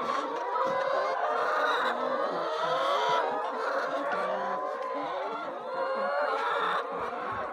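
A flock of chickens clucking, many short calls overlapping at once.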